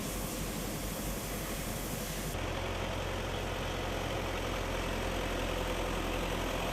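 A vehicle engine running steadily amid outdoor noise. About two seconds in the sound changes abruptly, the hiss thinning and a steadier low engine hum coming up.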